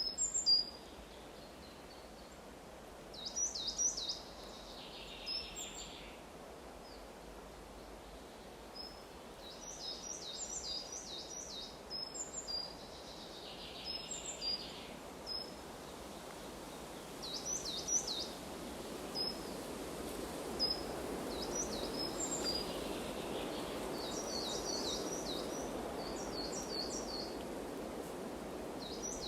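Small birds calling, with runs of short, high, quickly repeated downward-sweeping notes coming again and again, over a steady background rush that swells somewhat in the second half.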